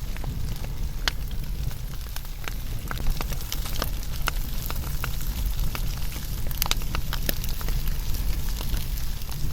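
Wood fire burning, a steady low rumble of flames under irregular sharp crackles and pops from the burning logs.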